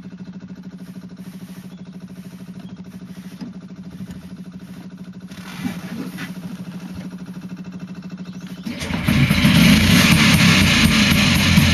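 Berkeley T60's rebuilt Excelsior Talisman two-stroke twin engine running: a steady low hum with a fast even pulse, then suddenly much louder and busier about nine seconds in.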